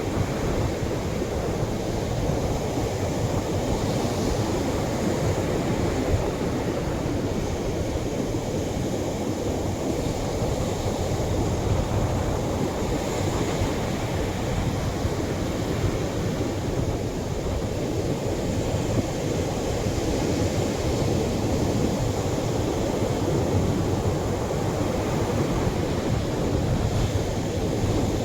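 Atlantic surf washing onto a beach, gentle waves at the shoreline: a steady, deep rush of water with slight swells every few seconds and no single sharp crash.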